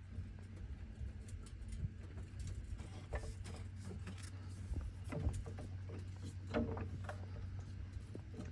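Scattered metallic clinks and knocks of tools or equipment being handled, over a steady low hum.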